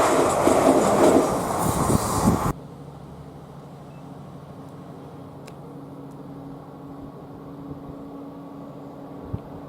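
A train going by with loud rail and wheel noise, which cuts off abruptly about two and a half seconds in. A much quieter steady low hum follows.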